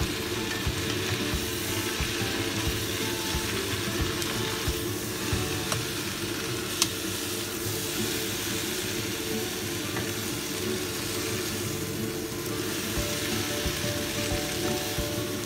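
Water spinach sizzling in hot oil in a wok as it is stir-fried, with a steady frying hiss. A spatula and a metal spoon scrape and clink against the pan now and then, with one sharp clink about seven seconds in.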